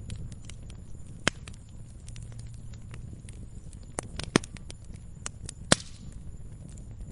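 Wood campfire crackling over a low steady rumble, with irregular sharp pops; the loudest come about a second in, around four seconds, and just before six seconds.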